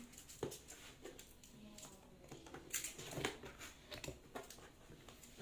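Faint handling noise while a box is opened and its contents are taken out: a few scattered light knocks and short rustles.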